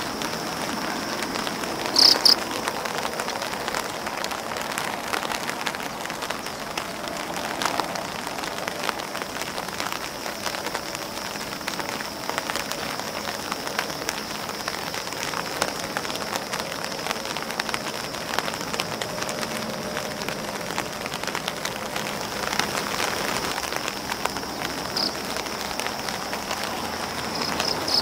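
Steady rain pattering on an umbrella and on grass leaves, a dense patter of individual drops. An insect keeps up a faint high steady buzz, with short louder chirps about two seconds in and twice near the end.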